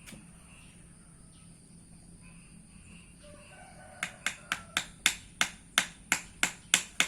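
Sharp, regular taps, about three a second, starting about four seconds in: tapping on a stuck mold to loosen the cast part inside.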